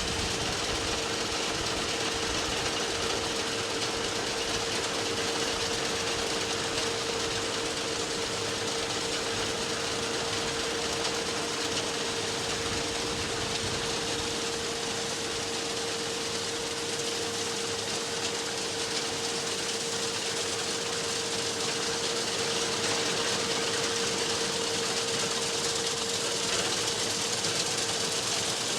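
Farm machinery working steadily: a tractor engine running under load with a straw baler's mechanism, a steady mid-pitched hum over a dense mechanical clatter.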